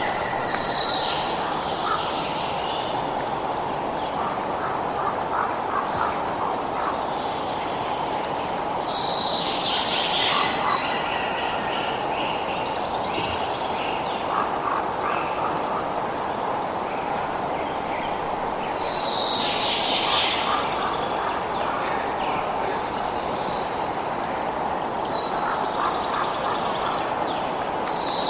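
Birds calling over a steady rushing background noise. Loud falling calls come at intervals of several seconds, with smaller chirps between them.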